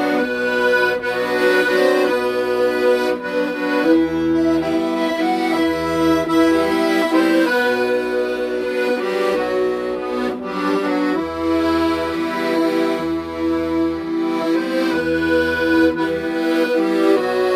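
Accordion playing a melody in held notes over a steady, regular bass accompaniment.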